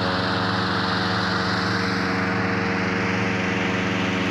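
Small engine running at a constant speed: a steady hum with a rush of air over it.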